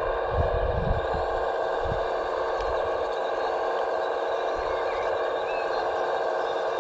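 Steady whine of a scale RC construction model's electric motor and hydraulic pump running, with a few low thumps in the first two seconds.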